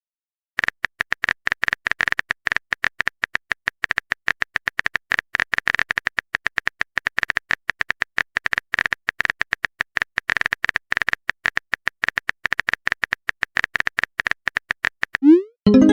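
Phone keyboard typing sound effect: rapid, irregular clicks, many a second, starting about half a second in. Near the end comes a short rising swoosh like a message-sent sound.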